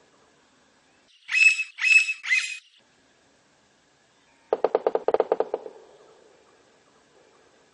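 Blond-crested woodpecker calling three times in quick harsh, high notes, then a second or so of rapid drumming, about a dozen knocks a second, that trails off.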